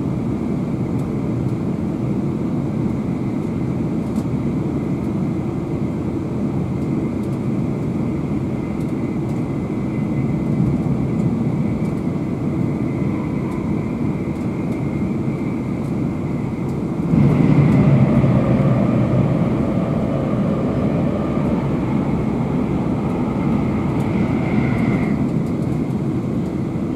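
Cabin noise inside a Class 350 electric multiple unit running at speed: a steady rumble of wheels on the rails. About two-thirds of the way in it gets suddenly louder, as another train passes on the next track.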